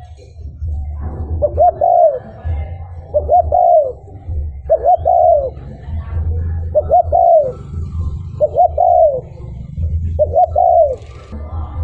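Spotted dove cooing: a phrase of two quick short notes and a longer arching coo, repeated about every two seconds, six times, over a low rumble.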